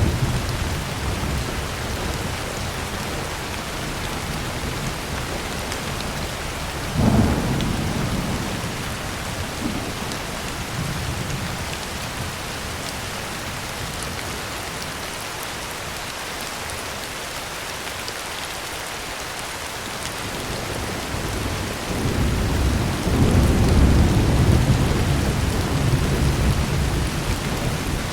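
Heavy rain falling steadily on a tin roof. A sudden clap of thunder comes about seven seconds in and fades out, and near the end a long low rumble of thunder swells up and rolls on.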